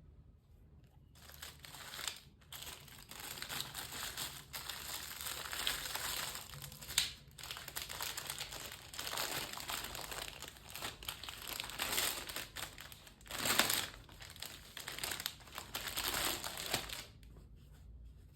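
Crinkling and rustling of something being handled, irregular and continuous, starting about a second in and stopping shortly before the end.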